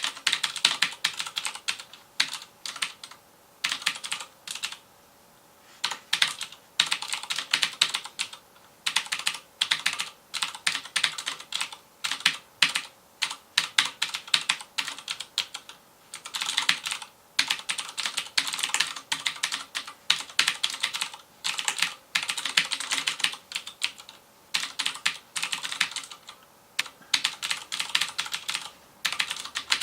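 Fast typing on a FILCO Majestouch Convertible 2 mechanical keyboard with Cherry MX Blue switches: rapid clicky keystrokes in bursts, with a short pause about four seconds in.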